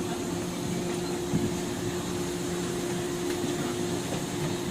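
Steady hum and rumble heard inside a 103 series electric commuter train car, with one constant tone running through it.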